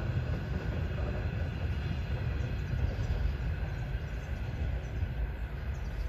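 Passenger train's coaches rolling away on the rails: a steady low rumble of wheels on track as the tail of the train recedes.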